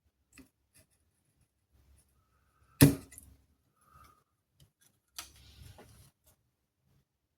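Small hand tool working a blown component off a PS5 Slim power supply board: one sharp snap about three seconds in, then a brief scraping rattle about two seconds later, with a few faint clicks around them.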